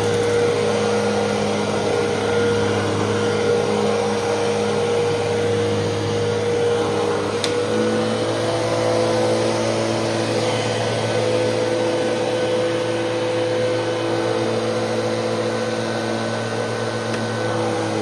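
Fantom Fury 10-amp upright vacuum cleaner running steadily, a constant motor drone with a steady hum over rushing air. A short sharp tick comes about seven seconds in, and the hum's pitch shifts slightly just after.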